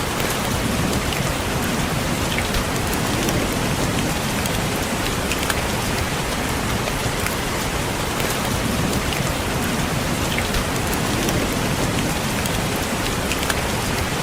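Rain falling steadily on a window, an even hiss with scattered sharp taps of single drops.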